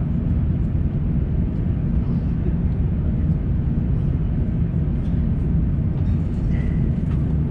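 Steady low rumble inside the cabin of an Airbus A350-900 taxiing after landing, its Rolls-Royce Trent XWB engines at idle. A short faint high tone sounds near the end.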